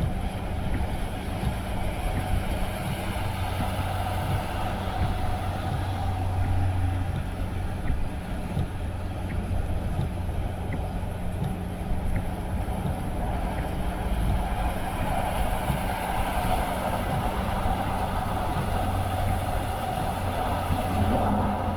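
A car driving along the road: steady engine hum and tyre noise that run on evenly.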